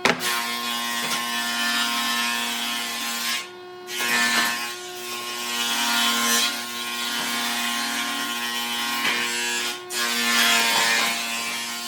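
Handheld electric power tool working wood: a steady motor whine with a rough grinding noise, cutting out briefly twice, about a third of the way in and again near the end.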